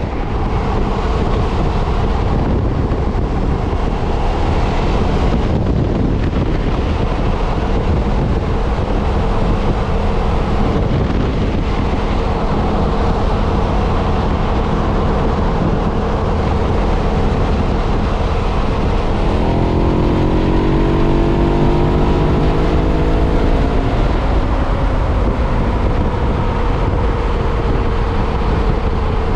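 KTM 990's V-twin engine running on its stock exhaust while riding a straight, with wind rush on the microphone. The engine note climbs steadily for a few seconds about two-thirds of the way in, then drops back.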